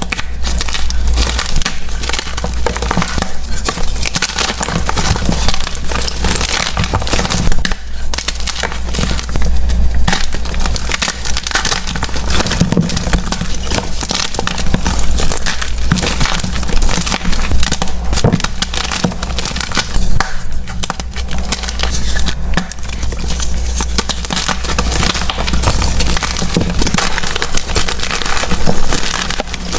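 Soft blocks of gym chalk being crushed and crumbled, a dense run of small crunches and crackles over a steady low hum.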